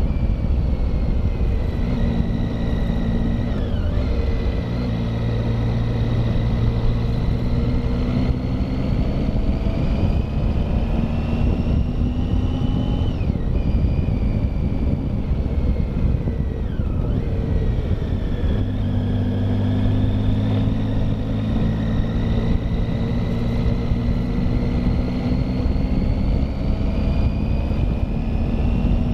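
Motorcycle engine pulling steadily uphill, its pitch rising slowly through each gear and dropping sharply three times at gear changes, over a dense rumble of wind and road noise.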